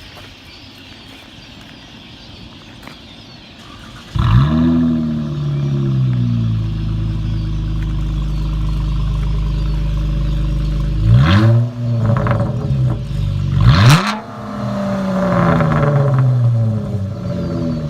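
2014 Dodge Challenger R/T's 5.7 Hemi V8, straight-piped with catalytic converters but no mufflers or resonators, starting about four seconds in with a loud flare and settling into a fast idle. The engine is blipped twice, about eleven and fourteen seconds in, then idles with the revs dropping.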